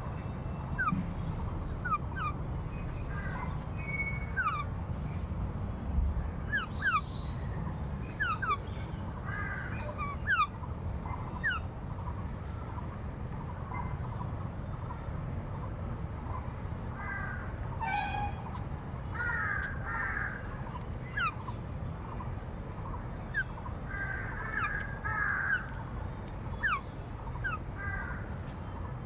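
Crows cawing several times, amid many short, quick falling chirps from other birds, over a steady high hiss and a low rumble.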